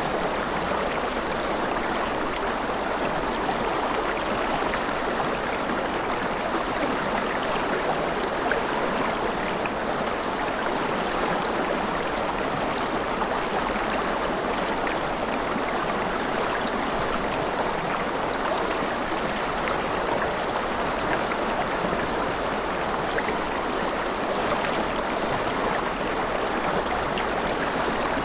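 River water flowing and splashing in a steady, unbroken rush, with small splashes flecked through it.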